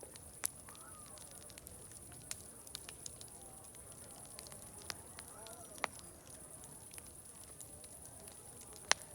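Wood fire crackling, with irregular sharp pops, the loudest near the end, and faint distant voices chattering underneath. A steady high-pitched hiss runs behind it.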